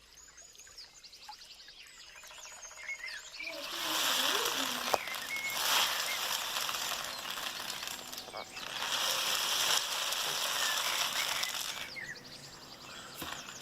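Pebbles running through a homemade cardboard-tube rain stick baffled with aluminium foil, making a rattling, rain-like hiss in two long rushes, the first starting a few seconds in and the second after a brief pause. Birds chirp faintly before it.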